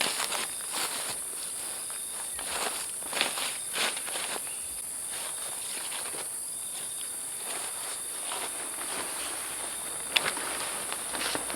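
Steady high-pitched insect chorus of a tropical forest, with irregular crunching and rustling close by and a sharp click about ten seconds in.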